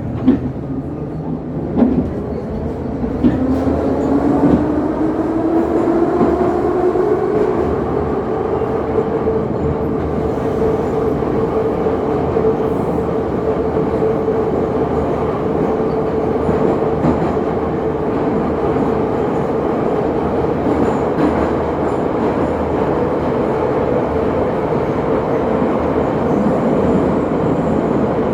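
Passenger train running on the rails, heard on board, with a few knocks early on and a whine that rises in pitch as it picks up speed over several seconds, then holds steady at speed.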